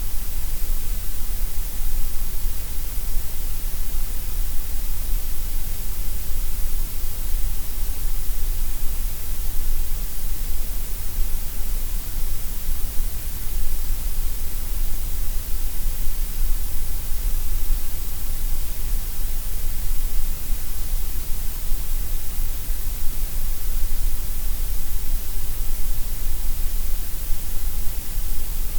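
Steady gray noise: an even, unbroken synthetic hiss, fullest in the deep bass and the highest treble and thinner through the middle.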